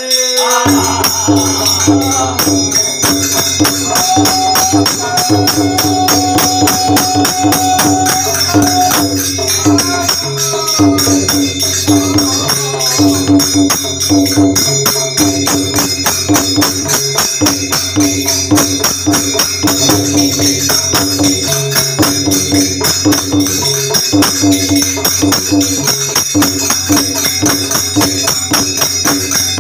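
Devotional folk music: jhaal hand cymbals clashing in a fast, steady rhythm over a drum and a short repeating melody, with no singing.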